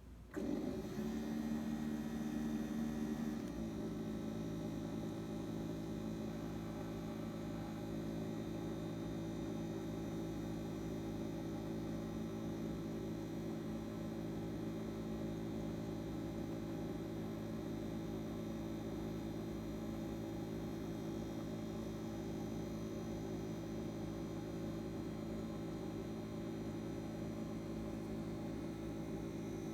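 Keurig K155 coffee maker's pump humming steadily while it brews. The hum starts abruptly and settles to a lower, even tone about three and a half seconds in.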